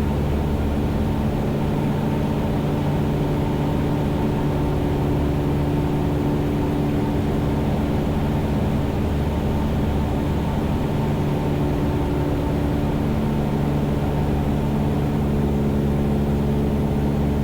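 Cessna 172's piston engine and propeller droning steadily in cruise flight, heard from inside the cockpit.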